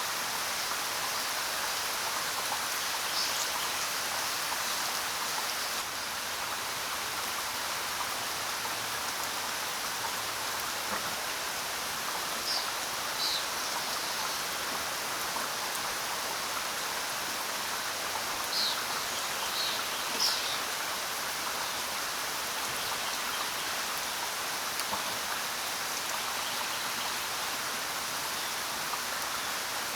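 Steady rain falling, with a few brief high bird chirps scattered through, mostly in the middle.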